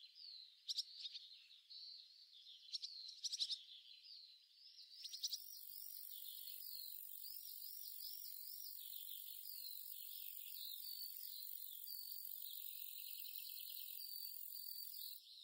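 Faint, high-pitched bird chirping: quick, repeated rising-and-falling chirps. A steady hiss comes in about five seconds in.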